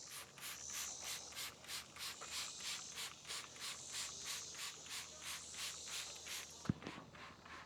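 Trigger spray bottle being pumped over and over, a quick hissing squirt about three to four times a second, stopping near the end, followed by a single sharp click.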